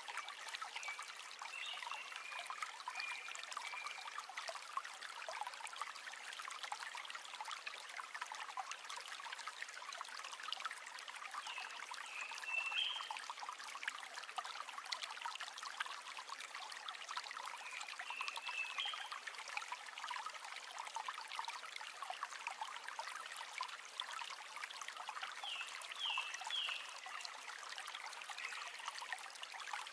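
A river flowing steadily, an even, fine splashing of water with no low rumble. A few short high chirps come through now and then.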